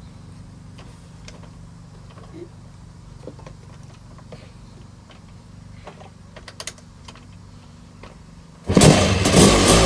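Scattered light clicks and knocks, then near the end a 1987 Honda TRX250R's two-stroke single-cylinder engine fires suddenly on a cold start and keeps running loudly.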